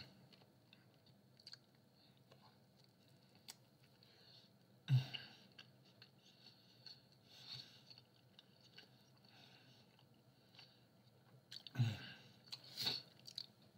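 A person chewing a mouthful of pizza with faint, scattered wet mouth clicks. There are a few short, louder mouth sounds: one about five seconds in and a couple near the end.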